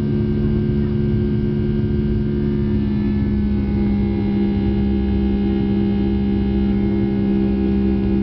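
Boeing 757 jet engines heard from inside the passenger cabin: a steady drone with a strong low hum, and about three seconds in a set of higher tones starts drifting slowly lower in pitch.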